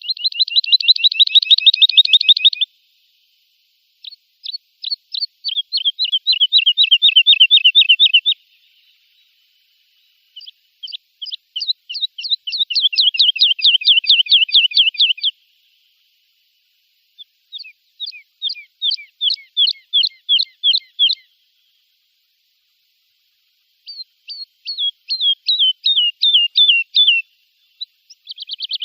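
European goldfinch singing its rapid trilled 'btabta' phrases: quick repeated high notes, about ten a second, in five bursts of a few seconds each with short pauses between.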